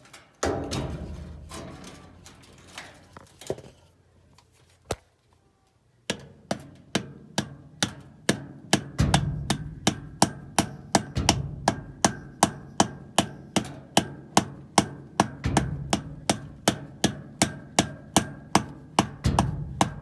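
Hammer blows on a washing-machine part that would not seat, driving it into place. A few scattered knocks come first, then from about six seconds in a steady run of strikes at about two or three a second.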